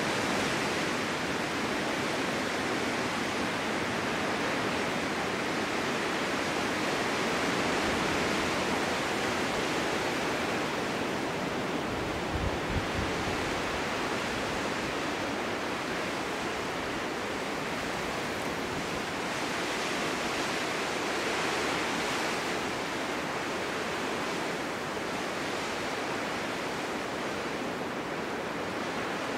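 Snowstorm wind blowing steadily, swelling and easing in slow gusts, with a brief low rumble about twelve seconds in.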